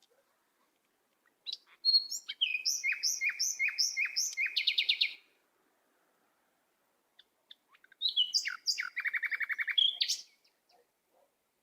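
A songbird singing two phrases of repeated high chirps, each ending in a quick trill, with a pause of a few seconds between them.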